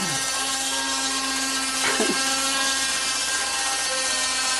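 Toy Christmas train running on its track, its small electric motor and gears giving a steady whir. A brief higher sound cuts in about two seconds in.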